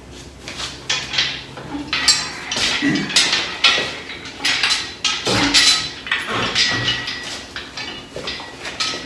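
Metal clanking and clinking: irregular knocks and clinks of steel parts and tools being handled, some leaving a brief metallic ring.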